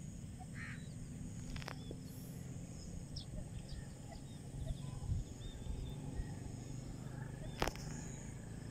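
Faint, scattered short bird chirps over a steady low hum, with a soft click a little under two seconds in and a sharper, louder click near the end.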